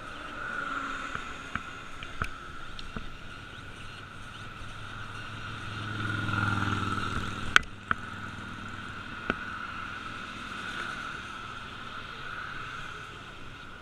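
A motor vehicle passes, its sound swelling and fading about six to seven seconds in, over a steady high-pitched hum. A few sharp clicks come just after it passes.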